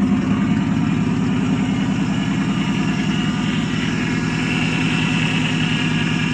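1985 Chevy Suburban's carbureted V8 idling steadily through a straight-pipe exhaust, warming up after a cold start.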